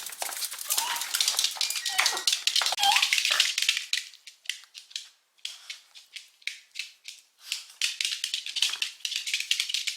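Rapid clicking and rattling of small objects being handled, dense for the first few seconds, thinning out in the middle and picking up again near the end.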